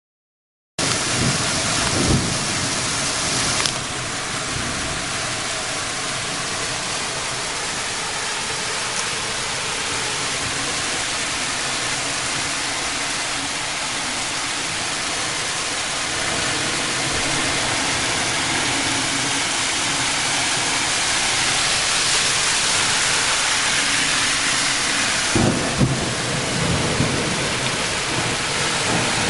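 Heavy rain pouring down in a steady, dense hiss that starts abruptly about a second in. A few brief low thumps stand out near the start and again near the end.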